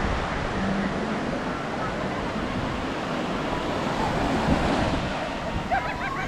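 Sea waves washing onto a beach, a steady rush, with wind buffeting the microphone.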